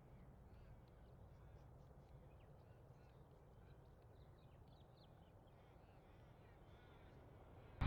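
Near silence: faint birds calling in short chirps over a low steady rumble. A loud aircraft noise cuts in abruptly at the very end.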